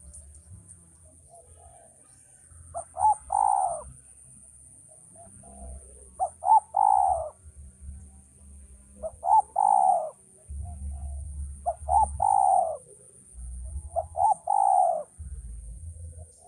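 Male spotted dove (tekukur) cooing: five repeated phrases about every three seconds, each two short notes followed by a longer falling note, with softer notes before each phrase.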